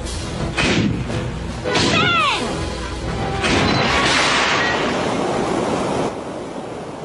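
Cartoon action sound effects over background music. A whistle slides down in pitch about two seconds in, then a long rushing, crashing noise runs from about three and a half to six seconds, typical of a cartoon fall and crash.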